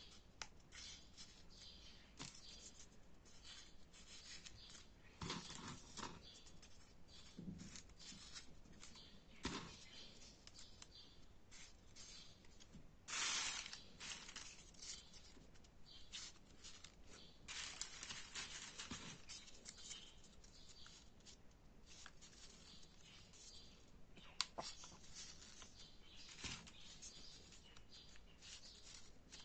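Faint rustling and crinkling of paper with small clicks and taps, as folded 3D origami paper units are handled and pushed into place; a louder rustle about halfway through.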